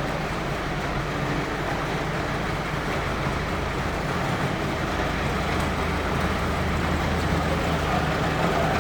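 Motor vehicle engine running steadily with road noise and a low hum.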